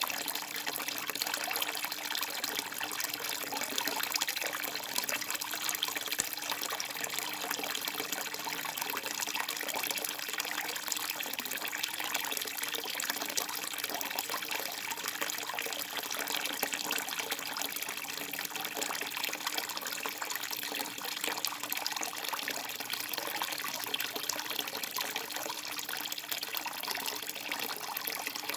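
Water trickling and splashing steadily through rice paddies, an even, unbroken bright babble with no pauses.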